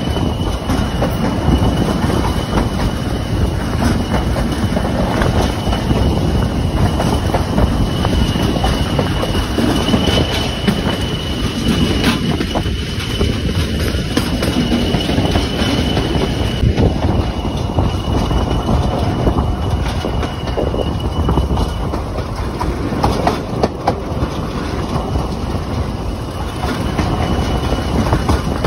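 Heritage railway train running steadily on the track, its wheels clattering and rumbling on the rails. A thin high whine from the running gear carries through much of it.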